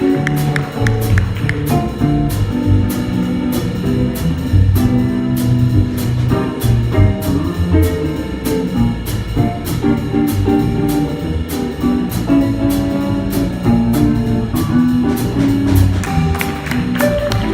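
A small band playing: guitar over bass and drums, with a cymbal keeping a steady beat.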